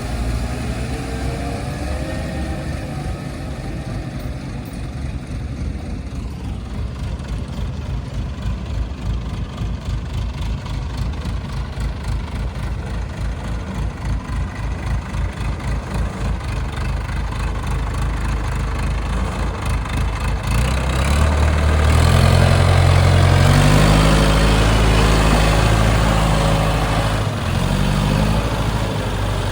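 Heavy diesel engine running with a steady low throb, then revving up about twenty seconds in. It holds the higher revs for several seconds, then eases back near the end.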